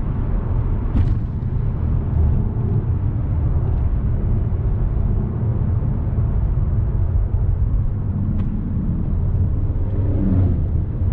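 Mk7 Volkswagen Golf R's turbocharged 2.0-litre four-cylinder engine running steadily while driving, with road rumble, in race mode with the engine sound set to sport.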